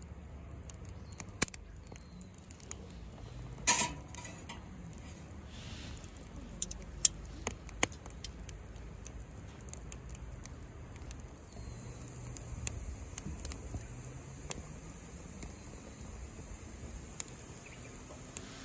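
Wood fire crackling, with sparse sharp pops and a few louder cracks scattered through.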